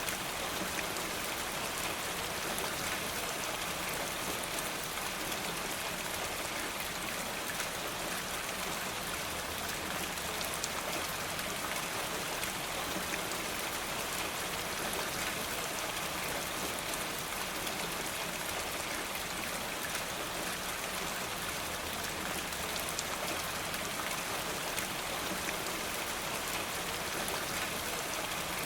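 Steady rain falling, an even rushing hiss with scattered small drop ticks throughout.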